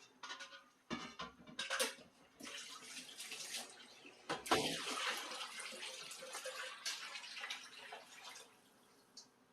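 Water running from a tap into a sink during dishwashing, starting about two seconds in and stopping near the end. A few short knocks come just before the water starts.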